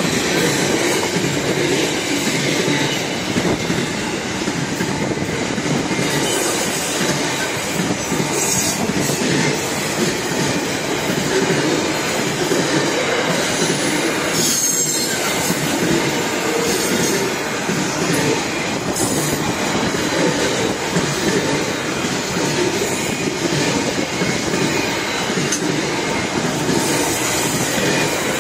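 Freight train wagons rolling steadily past on the rails, a continuous loud rumble of wheels and couplings, with brief high wheel squeals now and then.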